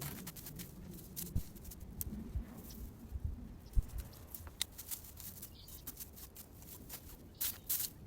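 Irregular rustling, clicks and knocks of hand clean-up work in a garden bed, with one sharper knock about four seconds in and two longer rustles near the end.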